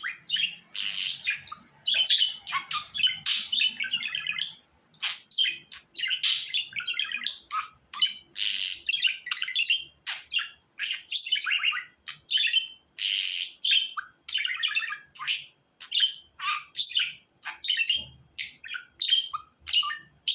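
Budgerigars chattering and warbling: a continuous run of quick, scratchy chirps and tweets, one after another with brief gaps.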